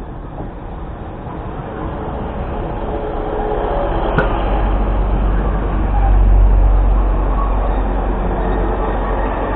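Class 150 Sprinter diesel multiple unit pulling in alongside the platform. Its diesel engine and wheels make a deep rumble that grows louder to a peak about six seconds in, then eases slightly, with thin whining tones in the second half.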